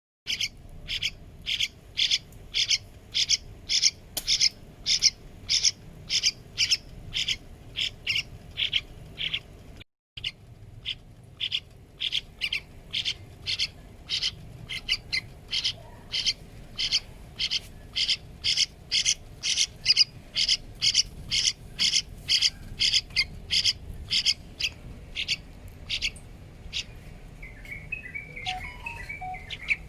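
A hand-reared young yellow-vented bulbul giving short, high chirps over and over, about two a second. There is a brief break about a third of the way in, and a short, softer warble near the end.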